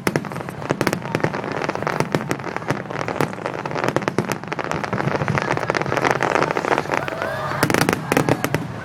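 Aerial fireworks going off in a dense string of crackles and pops, with a cluster of louder bangs near the end.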